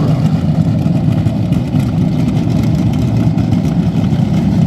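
A drag-racing car's engine idling steadily, with a choppy low tone.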